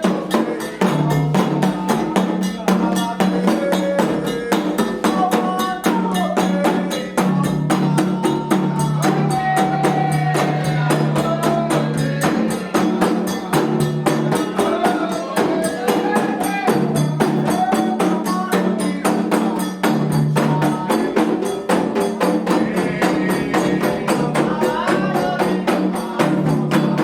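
Candomblé ritual music for Xangô: drums and struck percussion keep a fast, steady rhythm under singing voices.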